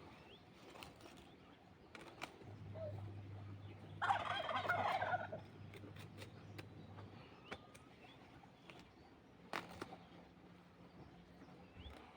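A turkey gobbling once, about four seconds in: a rapid rattling call lasting just over a second that slides down in pitch.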